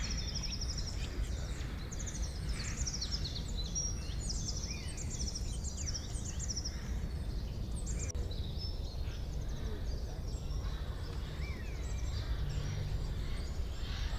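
Several songbirds chirping and trilling in quick, overlapping calls over a steady low rumble.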